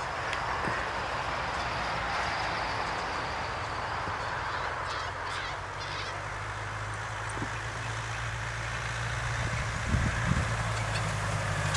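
Truck engine running steadily, its low hum growing stronger in the second half, under a continuous rushing noise.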